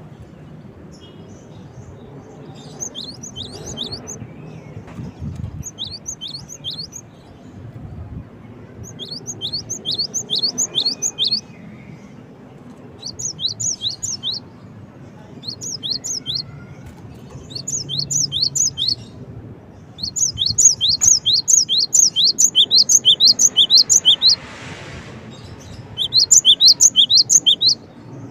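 Cinereous tit (gelatik batu) singing: bursts of rapid, high, downslurred notes at about five a second, the phrases a second to four seconds long with short pauses between them. The longest run comes about two thirds of the way in.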